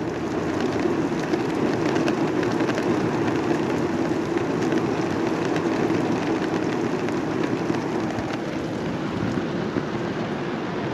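Heavy rain coming down steadily: a dense, even hiss dotted with many small ticks of individual drops.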